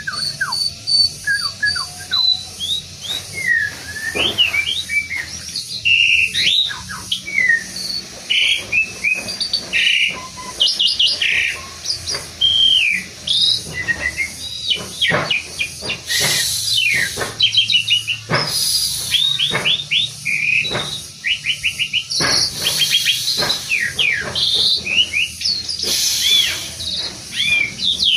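Pied starling (jalak suren) singing a long, varied song of whistles, chirps and quick sweeping notes, broken several times in the second half by harsh, scratchy bursts.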